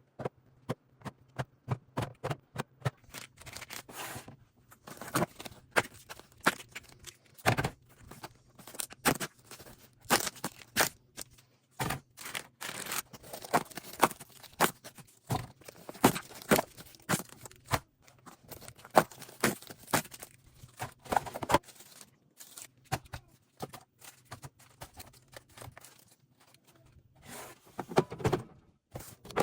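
Items being unpacked and set into a fridge: irregular clicks, knocks and scrapes of containers on the shelves, with some packaging tearing and rustling.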